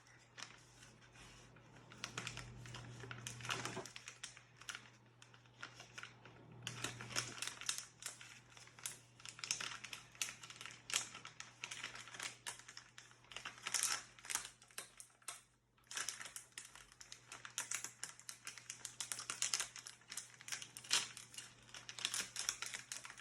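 Toy blind-pack wrapper being handled and torn open by hand: a dense run of crinkling, crackling plastic, with a short lull about four to six seconds in.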